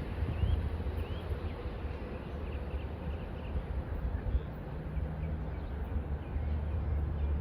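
Metro-North commuter train rumbling steadily at low speed in the station, with a low hum coming in about halfway through and a few faint, short high chirps early on.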